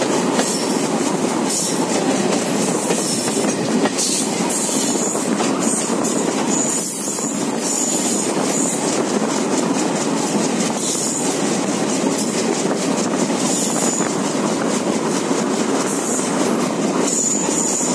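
Indian Railways train running along the line, heard from on board: a steady rolling rumble with some clicking over the rails. A thin high-pitched wheel squeal comes and goes several times.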